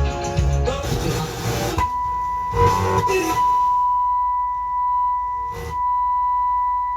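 Music cuts off about two seconds in and a steady, single-pitched sine test tone takes over, played through the repaired Fisher 500B tube receiver during its output test. The tone is broken briefly by two short bursts of noise, the second about five and a half seconds in.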